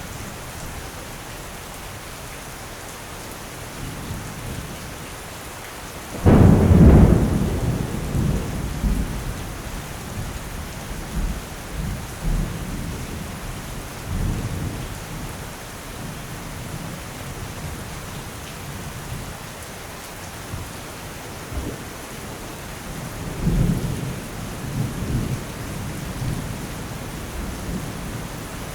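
Steady heavy rain with thunder: a sharp crack about six seconds in rolls off into a long rumble, and a second, softer rumble comes later.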